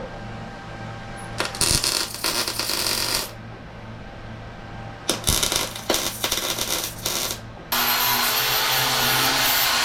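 Two spells of metallic clattering and scraping from shop work on steel, then a power tool starts abruptly near the end and runs steadily.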